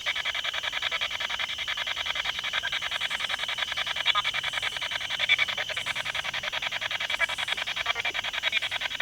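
Spirit box (ghost box) radio scanner sweeping through stations: rapid, evenly chopped radio static.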